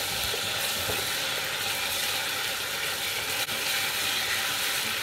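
Onion and ginger-garlic paste sizzling steadily in hot oil in a stainless steel pot, stirred with a wooden spatula.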